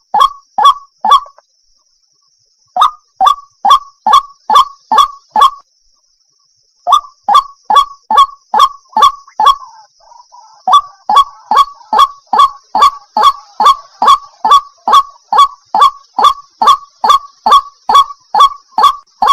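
Waterhen calling: a long run of loud, short notes repeated about two to three times a second, breaking off twice for about a second before starting again, over a steady high hiss.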